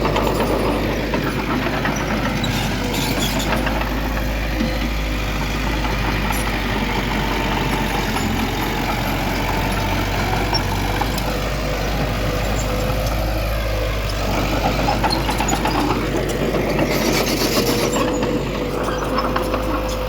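Heavy diesel earthmoving machinery, a bulldozer working with dump trucks, running steadily, with a constant whine over the engine noise and a short burst of clatter near the end.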